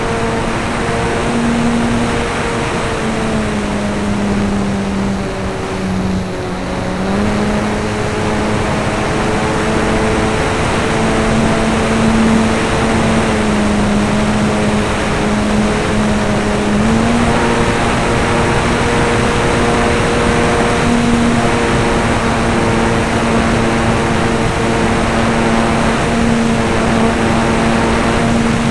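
Radio-controlled model airplane's motor and propeller droning steadily, heard from a camera mounted on board, with rushing air noise. The pitch drops a few seconds in, comes back up around seven seconds, and rises again around seventeen seconds as the throttle is changed.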